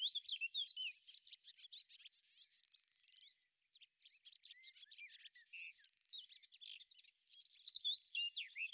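Birdsong: a continuous stream of quick, high chirps and warbling trills, with a short lull about three and a half seconds in.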